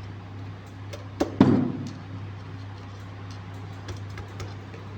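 Two sharp metal clicks close together about a second in, with a short ring, as a screwdriver presses the oil seal's lock ring into its groove on the Tullu pump shaft, followed by a few faint ticks. A steady low hum runs underneath.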